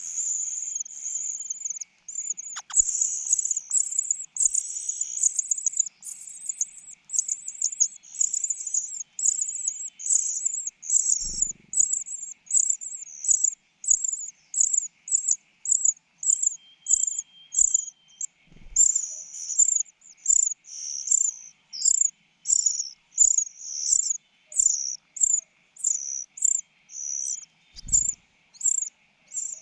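Baby birds in the nest begging with high, thin cheeps, rapid and overlapping at first, then settling into a steady series of about two calls a second.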